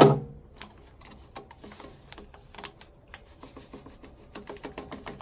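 A single sharp knock, then a steady run of light, quick clicks and ticks, about three or four a second by the end.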